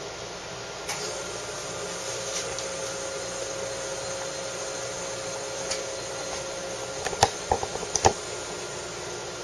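Bezzera Medea E61 espresso machine's pump running with a steady hum as a double shot of espresso is pulled, coming on about a second in. Several sharp clinks near the end.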